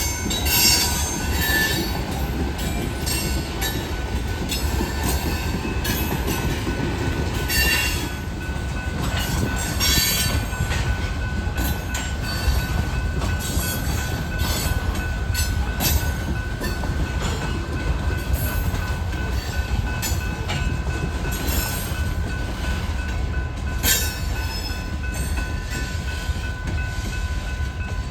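Railroad train rolling slowly past with a steady rumble. Its wheels give a thin, sustained squeal, and short sharp clicks and clanks come irregularly throughout.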